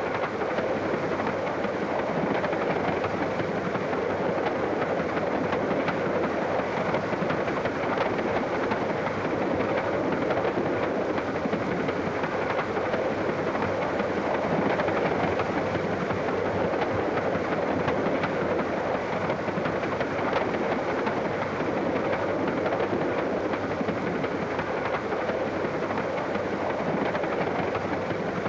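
Steady rumble of a railway carriage running along the track, heard from inside the compartment.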